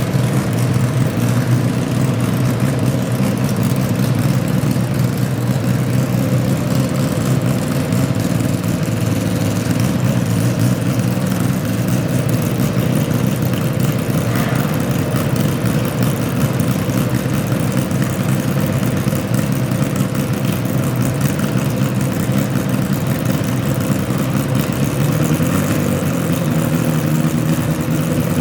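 A garden pulling tractor's engine runs steadily at an even, low speed. Its pitch edges up slightly near the end.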